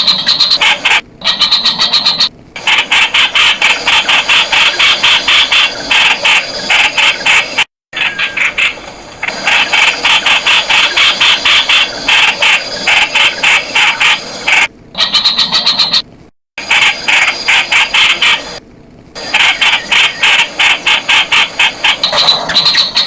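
Streak-eared bulbul calling: a loud, rapid chatter of sharp repeated notes, several a second. The chatter is cut by brief dead-silent gaps, twice, as in a looped, edited recording.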